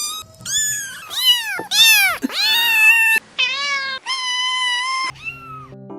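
Kittens meowing over and over, about eight high-pitched meows in quick succession, some arching up and down in pitch and some held level. Low music tones come in near the end.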